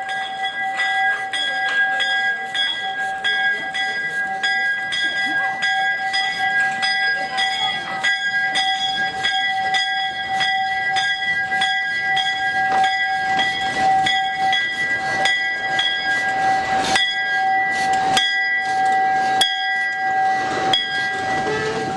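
Steam locomotive's bell ringing over and over in a steady rhythm, each stroke ringing on into the next, with some louder strokes near the end. It is the bell rung while the engine moves through the yard.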